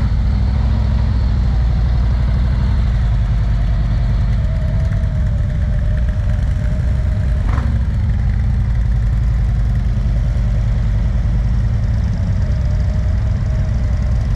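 Motorcycle engine running steadily while riding, with one short click about halfway through.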